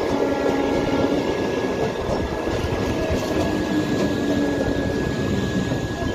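Indian Railways passenger train coaches rolling past close by, a steady loud rumble of wheels on the rails. A thin steady high whine runs under the rumble.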